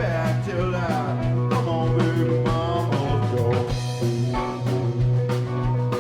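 Blues-rock band playing live, with drums hitting a steady beat under a held bass line and electric guitar.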